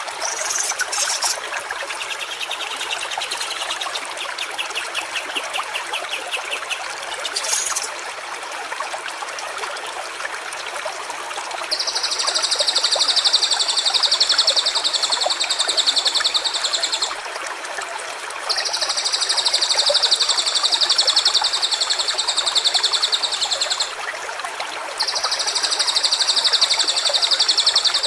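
A stream runs steadily over stones under brief high chirps from birds in the first few seconds. About twelve seconds in, three long, even, high trills of about five seconds each begin, separated by short gaps, and they are the loudest sound.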